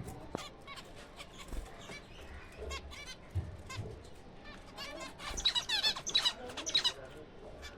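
A colony of zebra finches calling: many short, nasal chirps overlapping, with a louder, denser run of rapid chirping about five seconds in.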